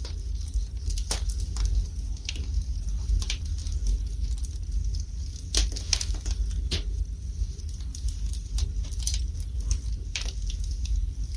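Wood fire burning in a fireplace: irregular crackles and sharp pops a few times a second over a steady low rumble of the flames.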